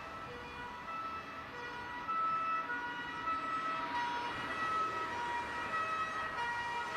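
Two-tone emergency siren of a fire truck, alternating between a low and a high note about once a second over road traffic noise, getting louder about two seconds in. This is the European two-tone pattern used on German fire engines.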